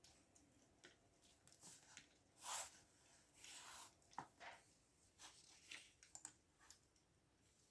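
Faint, irregular computer keyboard typing: scattered key clicks, with two short scratchy rustles about two and a half and three and a half seconds in.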